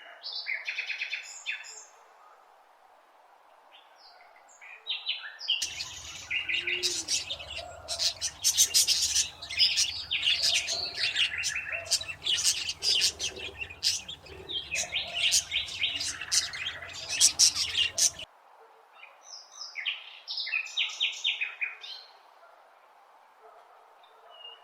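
Birds chirping in quick trains of short, high notes that come in bursts, with a busy stretch in the middle where several birds call at once over a low rumble.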